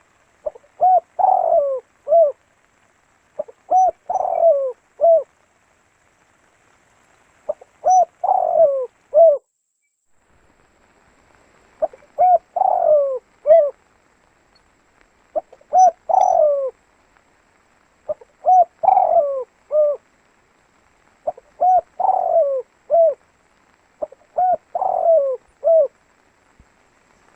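A spotted dove (tekukur) cooing: a phrase of several low coo notes repeated eight times, roughly every three to four seconds, with silence between phrases.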